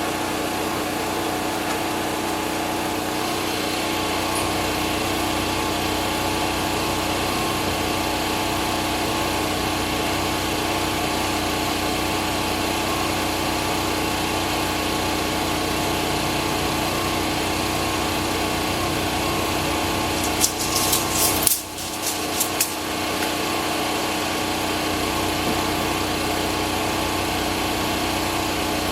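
Portable band sawmill running steadily under its engine while edging a rough-sawn board. About twenty seconds in there is a short cluster of sharp knocks.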